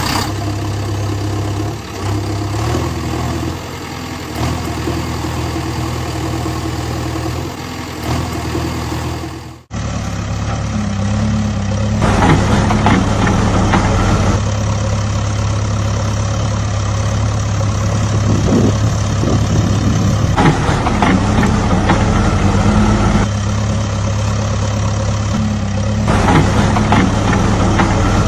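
An engine running steadily at idle. There is a sudden break about ten seconds in, after which it runs a little louder, with rattling now and then.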